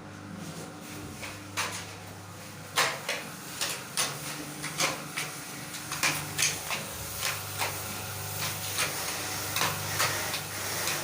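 A steady low machine hum that fades and returns, with irregular sharp knocks and scrapes, roughly two a second from about three seconds in, from work on a semi-dry floor screed.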